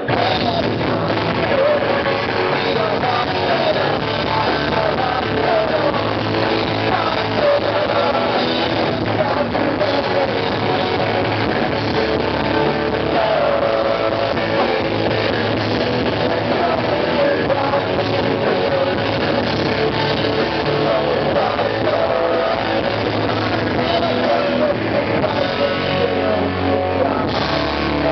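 Rock band playing a song live, with a singer's vocals over electric guitar and drums.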